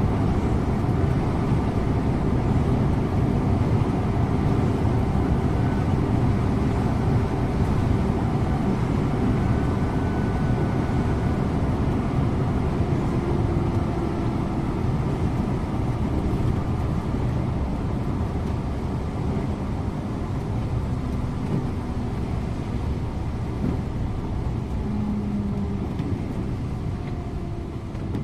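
Scania InterLink coach on the move, its engine and road noise a steady low rumble inside the cab, growing gradually quieter over the second half.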